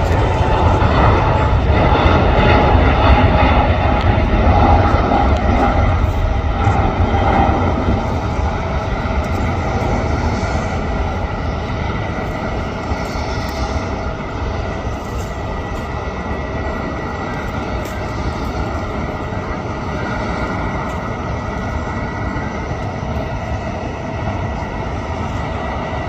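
Jet airliner's engines running loud, a heavy rumble with a steady high whine, loudest in the first few seconds and slowly fading as the aircraft moves away.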